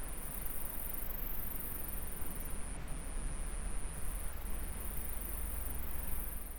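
An insect singing a steady, high-pitched trill that breaks off briefly every second or so, over the even rush of a flowing stream.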